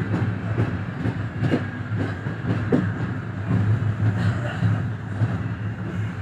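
Passenger train running on the rails: a steady low rumble with irregular sharp clicks of the wheels over rail joints.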